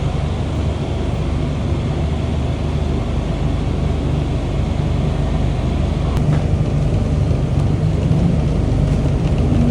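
Light rail train running on its track, a steady low rumble.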